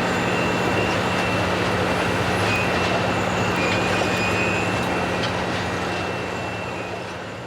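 Track renewal train's machinery running with a steady hum, fading out near the end.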